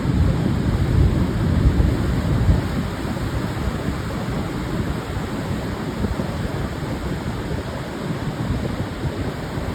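Pacific surf breaking and washing on a sandy beach, with wind blowing across the microphone and a deep rumble. It is somewhat louder in the first few seconds, then settles into a steady wash.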